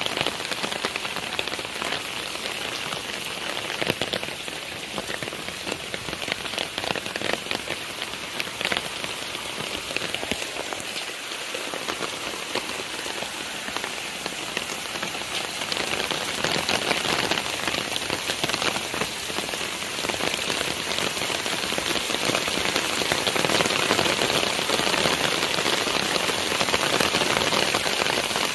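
Steady rain falling on the ground and surrounding surfaces, a dense hiss of drops that grows louder from about halfway through.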